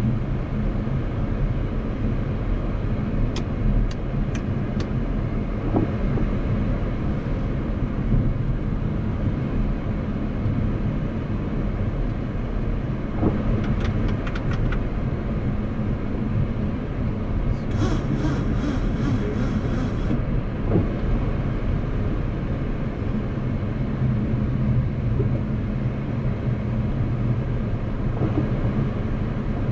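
Steady flight-deck noise of a Boeing 737 MAX 8: engine and airflow noise inside the cockpit, with a few faint clicks and a brief high, pulsing sound a little past halfway.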